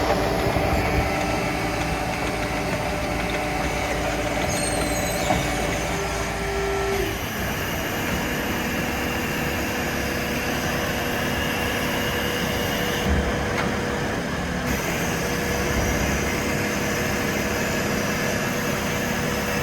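BOMAG BF 350 C-5 asphalt paver's diesel engine running steadily, its sound shifting about seven seconds in.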